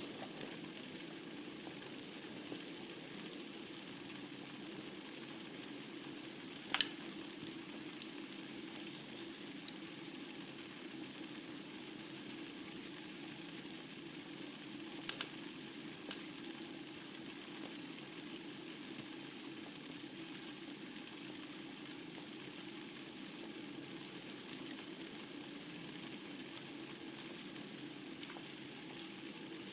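Wood burning in a fireplace: a steady crackling hiss with a few sharp pops, the loudest about seven seconds in.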